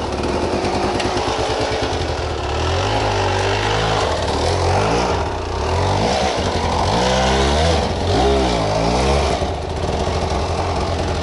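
Trail motorcycle engine running, its revs rising and falling several times in the middle as the throttle is worked.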